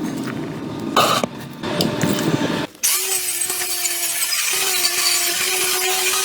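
Rough scraping and rubbing on metal, then about three seconds in a small power tool starts up and runs at a steady, even pitch.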